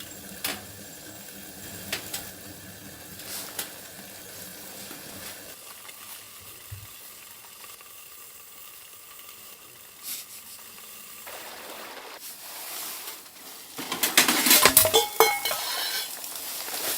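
Food sizzling in a frying pan, with occasional sharp clicks of a utensil. Near the end, louder clattering and scraping breaks in.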